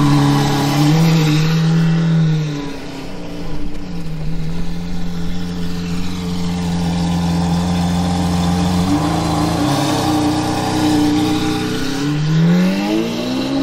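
Lamborghini Aventador Hamann Nervudo Roadster's V12 engine and exhaust running at low revs as the car rolls slowly, a steady note that steps in pitch a few times, then revs rising over the last second or so as it pulls away.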